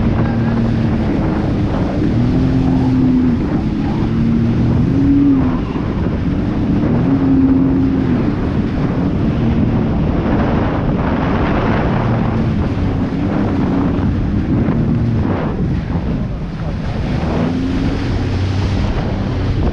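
Jet ski engine running, its pitch going up and down every second or two as the throttle is worked, with wind buffeting the microphone and water rushing.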